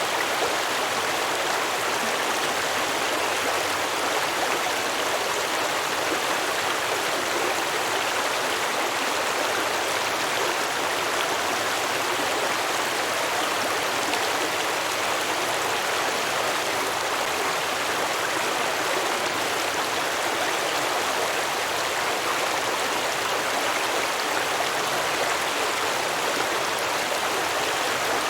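Stream water flowing and babbling over rocks, a steady, even rush with no pauses.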